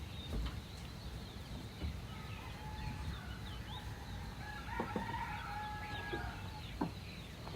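A rooster crowing, a long drawn-out call through the middle of the stretch, with small birds chirping high and a few short knocks.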